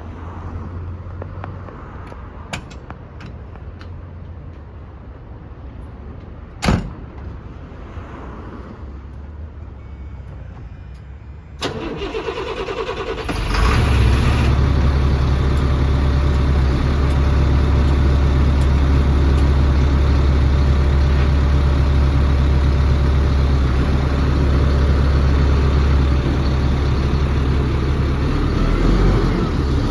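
A single sharp knock, then about twelve seconds in the Freightliner dump truck's Caterpillar diesel engine is cranked, fires and settles into a loud, steady idle.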